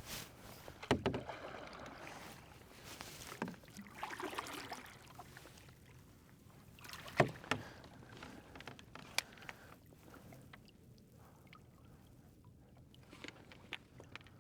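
Water splashing and sloshing with a few sharp knocks, from a small boat being paddled through shallow marsh water.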